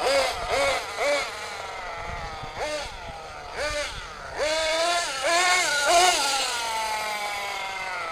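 Kyosho USA-1 RC monster truck's .21 nitro engine, revved in a series of short, sharp throttle blips that each rise and fall back quickly. About four and a half seconds in it is held at higher revs for around two seconds, then its pitch slides back down toward idle.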